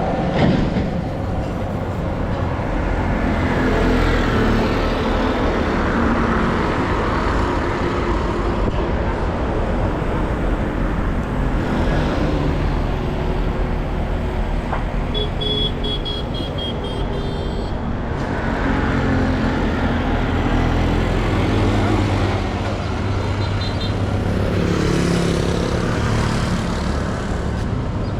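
Street traffic: motor vehicle engines running and passing in a steady rumble, with a short run of high repeated tones about halfway through.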